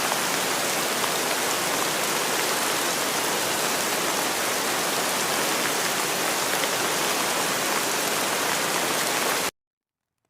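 Steady rain falling, a dense even hiss with scattered tiny drop taps. It cuts off suddenly near the end.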